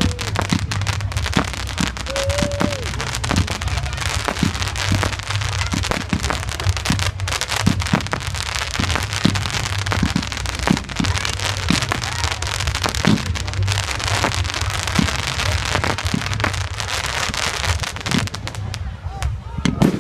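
Fireworks display going off: dense crackling with frequent sharp bangs over a steady low rumble. The crackle thins out near the end.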